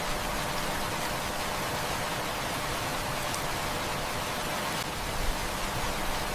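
Heavy rain falling in a steady, even hiss, with a few faint crackles from a wood fire.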